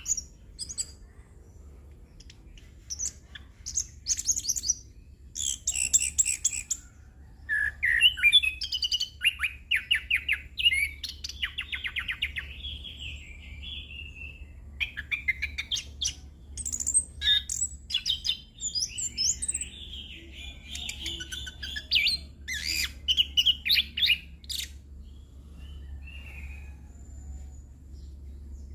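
Chestnut-capped thrush (anis kembang) singing a long, varied song of quick chirps, trills and whistled glides with mimicked phrases. It comes in bursts of one to three seconds with short pauses, over a faint steady low hum.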